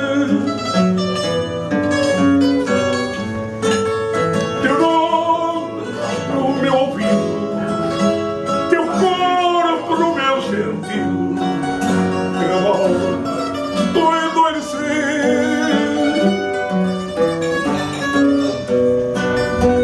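Instrumental fado interlude: a Portuguese guitar plays quick melodic runs over the plucked chordal accompaniment of the fado viola (classical guitar).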